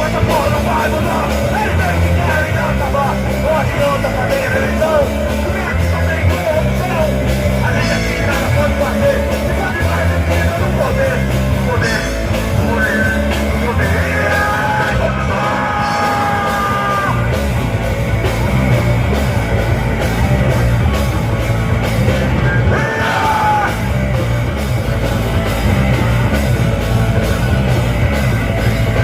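Live rock band playing a punk-style song with shouted vocals over distorted guitars, bass and drums.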